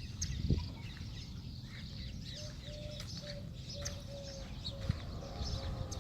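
Small birds chirping in many short high calls, joined from about two seconds in by a low note repeated roughly twice a second, over a steady low rumble.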